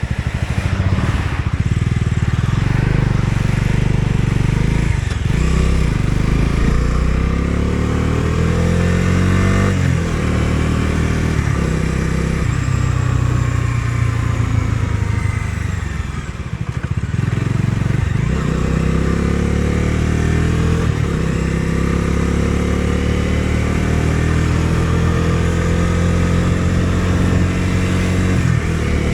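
Bajaj Dominar 250's single-cylinder engine pulling through the gears under way, its pitch climbing steadily and then dropping sharply at each upshift several times over, with a brief ease-off of the throttle near the middle.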